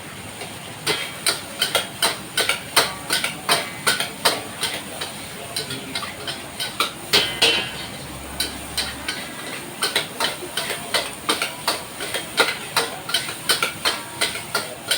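Metal spatula repeatedly striking and scraping a steel wok while stir-frying nasi goreng: a run of sharp, ringing clanks, roughly two to three a second and irregularly spaced, over a steady hiss.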